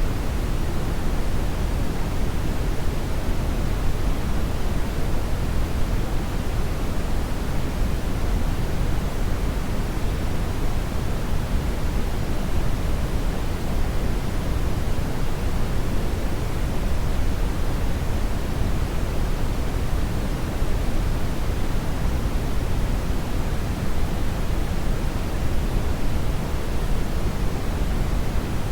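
Hair dryer blowing continuously: a steady, even rushing of air, heavier in the low end, with no audible motor whine and no change in level.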